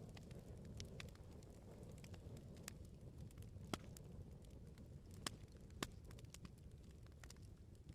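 Wood bonfire crackling: a steady low burning rumble under frequent sharp pops and snaps of the firewood, with a few louder pops through the middle.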